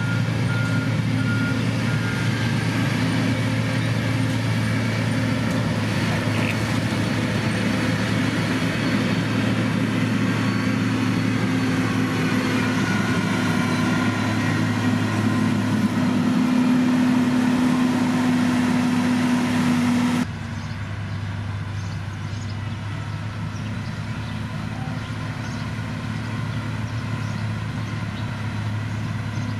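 Diesel engines of heavy road-construction machinery running steadily, with a reversing alarm beeping for the first couple of seconds. About twenty seconds in, the sound cuts abruptly to a quieter, steady engine hum.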